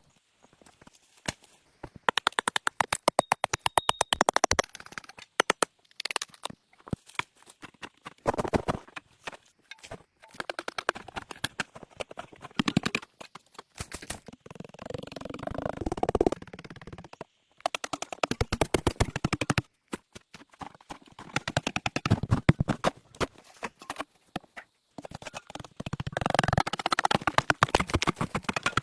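Quick runs of sharp crackling clicks and knocks mixed with rustling, coming in bursts broken by a few abrupt silent gaps, like sticks and forest litter being snapped and handled.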